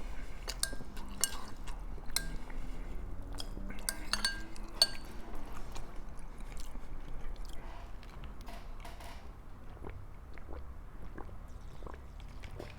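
Eating sounds: a spoon clinks against a bowl several times in the first five seconds, with chewing. Quieter scattered clicks and chewing follow.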